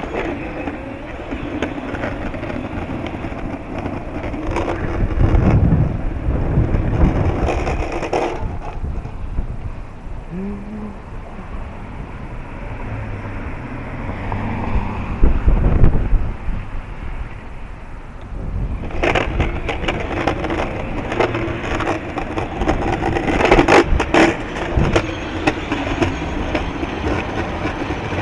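Strong wind buffeting the microphone in gusts, with crackling, scraping noise that drops away for several seconds in the middle and then returns.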